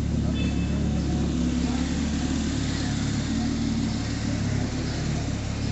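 A car engine running steadily with a low, even drone, mixed with street noise.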